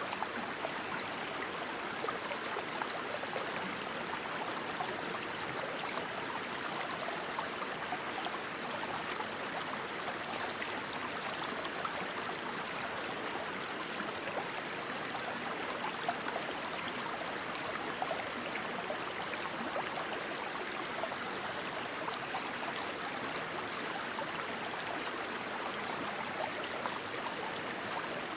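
Water rushing and splashing steadily like a fast stream. Short high chirps come at irregular intervals over it, with two quick trills, one about ten seconds in and one near the end.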